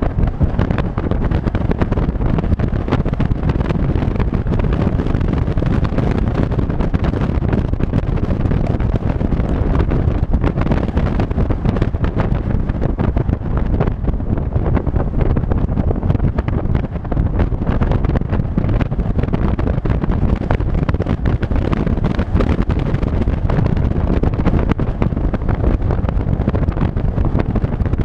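Steady wind buffeting on the microphone of a moving vehicle, over low road and engine noise.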